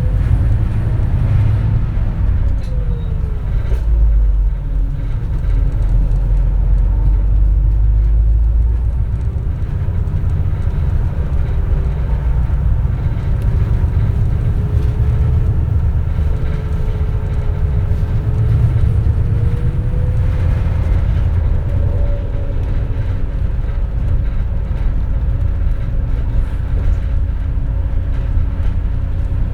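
Running sound of a 2004 compressed-natural-gas (CNG) city bus heard from inside the cabin: a heavy low rumble with a whine that falls over the first few seconds, then slowly rises and holds steady as the bus moves through traffic.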